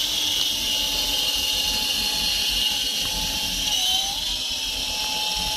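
Small electric 3.5-channel RC helicopter in flight, its motor and rotors giving a steady high whine that wavers and dips slightly as the throttle is worked. It is being flown at over half throttle on a battery that is running down.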